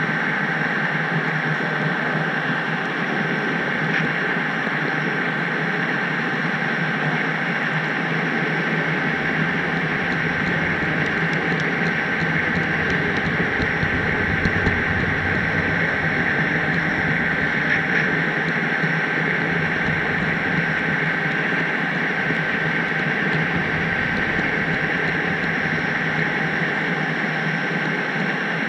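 Steady rolling noise of an HO-scale model train, picked up by a camera riding on the car: metal wheels running on the rails with a constant high whine and a couple of faint clicks.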